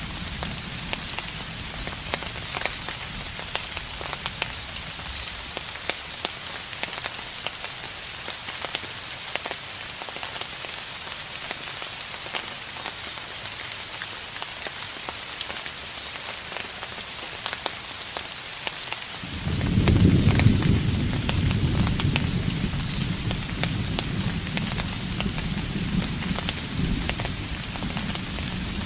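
Steady rain falling, with fine ticks of individual drops. About two-thirds of the way through, a low rumble of distant thunder sets in suddenly, loudest just after it starts, and rolls on, slowly easing.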